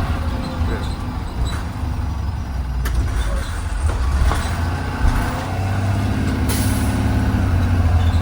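Blue Bird Vision school bus running steadily on the road, heard from inside the passenger cabin as a low engine rumble with a few light rattles. About six and a half seconds in there is a brief high hiss.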